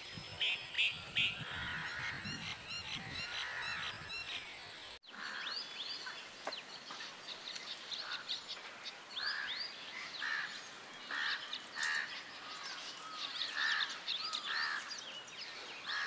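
A chorus of wild birds calling: quick high chirps and short calls repeated every second or so. The sound changes abruptly about five seconds in.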